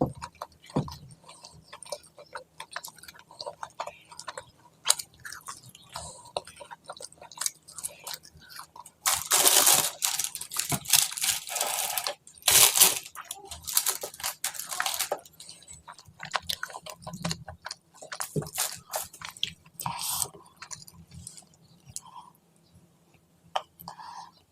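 Close-miked eating: a person chewing food with many small mouth clicks, and a stretch of loud, crisp crunching from about nine to fifteen seconds in.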